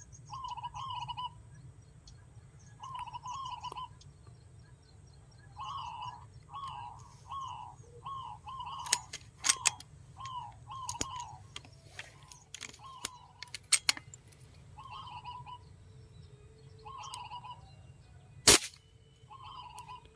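A bird repeating a short, rough call about fifteen times at uneven intervals. A few sharp clicks fall among the calls, and one loud sharp crack comes near the end.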